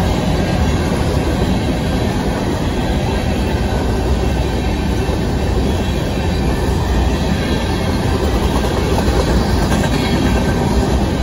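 Covered hopper cars of a Union Pacific grain train rolling past, a steady rumble of steel wheels on rail.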